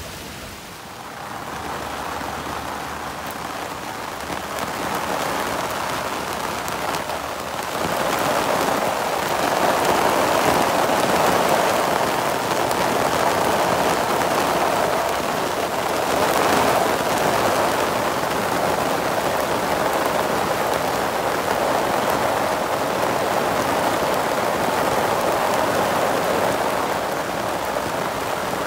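Heavy rain pouring down in a thunderstorm, building over the first few seconds and coming on much harder about eight seconds in, then a steady downpour.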